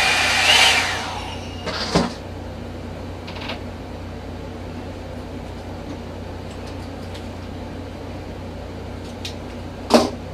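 Revlon One-Step hot-air brush running. A loud airy hiss for about the first second and a half settles into a steady, quieter motor hum. Two short knocks come about two seconds in and near the end.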